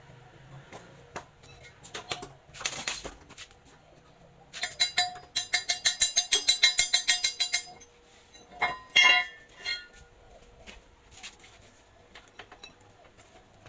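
Metal tools and parts clinking during hand work on a pallet truck's hydraulic pump, with a rapid even run of ringing metallic clicks, about six a second, lasting some three seconds a little before the middle, then a few louder clinks.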